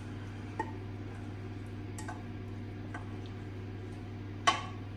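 A few faint clicks of kitchen utensils and dishes being handled, then one sharp clink of crockery near the end, over a steady low hum.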